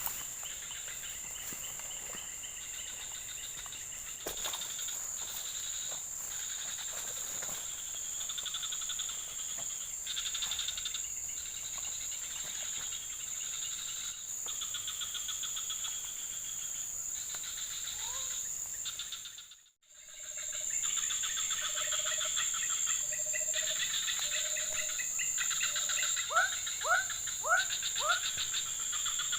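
A chorus of insects: a steady high shrill with pulsing trills beneath it. After a brief cut about two-thirds in, a row of short even animal notes and then four or five quick upward-sweeping calls.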